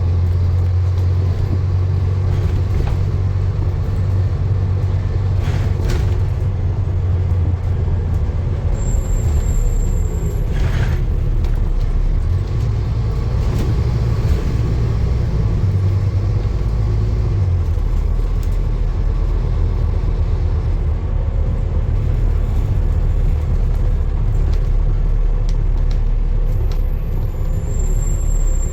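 Steady low rumble of a running vehicle, with brief thin high-pitched tones about nine seconds in and again near the end.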